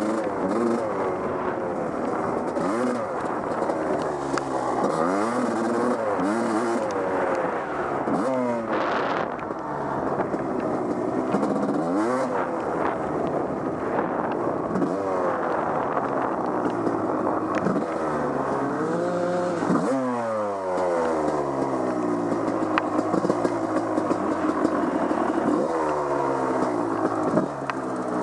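Off-road vehicle engine being ridden hard on a trail, revving up and falling back again and again as the throttle is worked. There is a brief hiss about nine seconds in.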